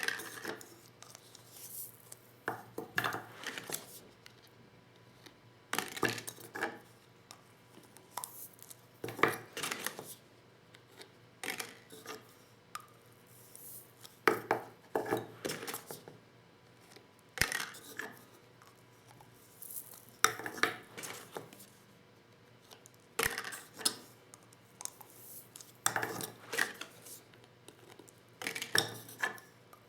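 Lee Loader shotgun-shell reloading tools and shells being handled: irregular clusters of sharp clicks, taps and clatter of small hard parts, every second or two.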